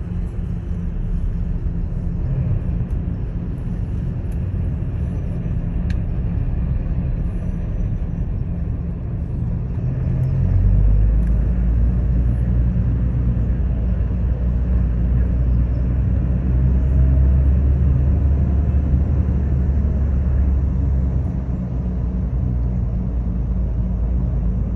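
Steady low rumble of outdoor noise, much heavier in the deep bass from about ten seconds in until about twenty-one seconds.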